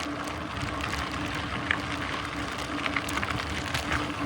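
Mountain bike rolling along a dirt trail: a steady rush of tyre and wind noise with scattered small ticks and rattles, over a faint steady hum.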